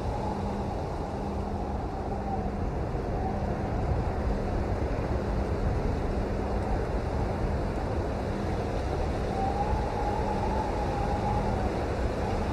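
Steady rain, an even rushing noise heaviest in the low end, with a faint wavering tone rising out of it near the start and again about ten seconds in.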